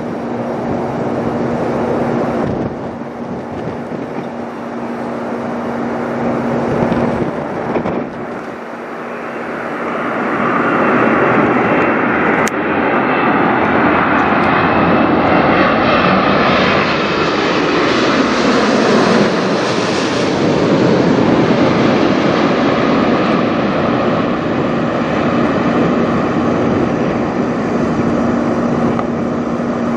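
Boeing 787-9 Dreamliner's jet engines as the airliner flies low overhead. The rushing roar swells from about ten seconds in, peaks in the middle with a whine that drops in pitch as it passes, then stays loud to the end.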